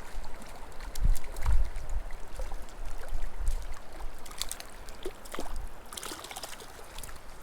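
Small mountain creek flowing, with scattered small splashes and clicks and a few low bumps on the microphone.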